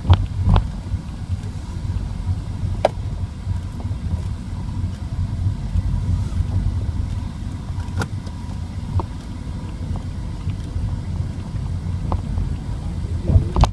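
Steady low rumble of a car, with a few short sharp clicks or knocks scattered through it.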